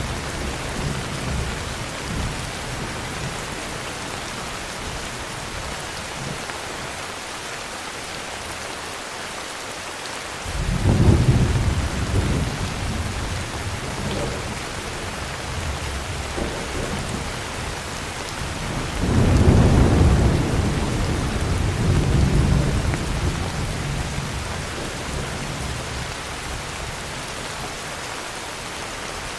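Steady heavy rain with rolling thunder: a rumble fading away at the start, then two loud low claps of thunder, about a third of the way in and again about two-thirds in, each rumbling on for several seconds.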